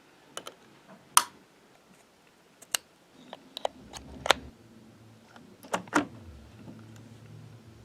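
A string of sharp plastic clicks and knocks, eight or so with the loudest about a second in, from drone flight batteries and charging cables being handled and plugged in. A faint low hum sets in about three seconds in.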